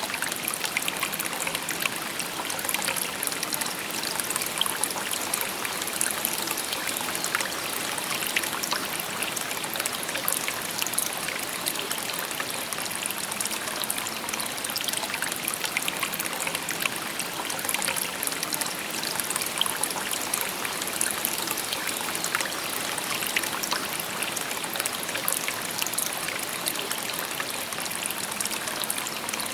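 Shallow stream babbling over stones: a steady, even rush of water with many small trickles and splashes.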